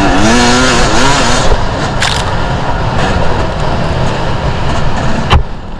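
Two-stroke enduro motorcycle engine running off-road, its revs rising and falling, with a sharp knock about five seconds in.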